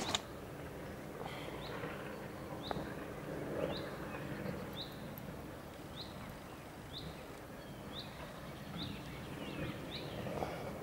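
A small bird repeating a short, high call note about once a second over a steady outdoor background hiss, with a brief knock at the very start.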